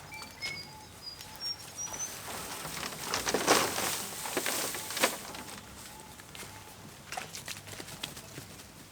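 Outdoor ambience with birds calling: short high chirps and a repeated lower note. A stretch of rustling and crunching comes in the middle, loudest about halfway through.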